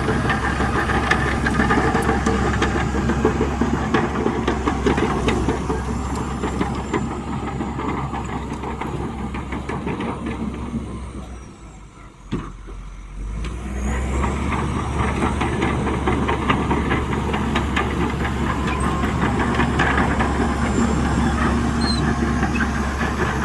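Heavy diesel engine of earthmoving machinery running under load, with a busy clatter. The sound drops away briefly about halfway through, then comes back at the same level.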